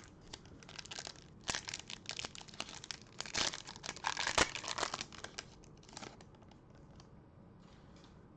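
Trading-card pack wrapper crinkling and tearing as it is ripped open, a dense crackle from about a second in until about five seconds in, then only faint rustles.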